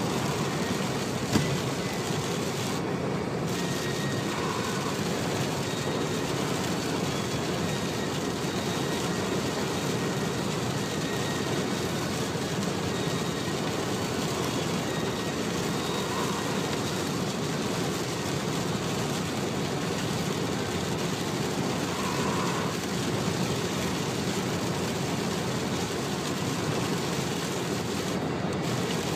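Car driving along a motorway: steady road and engine noise, with a single sharp knock about a second in.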